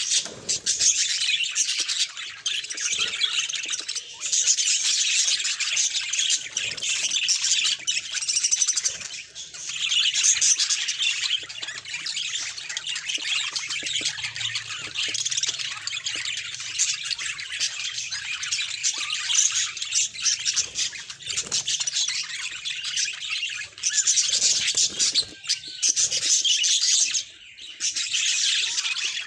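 Budgerigars chattering: a dense, continuous stream of chirps, warbles and squawks, with a few short lulls.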